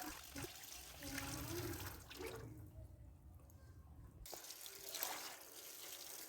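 Running tap water splashing over plastic fridge storage boxes being washed in a sink. The splashing drops away about two and a half seconds in and comes back a couple of seconds later.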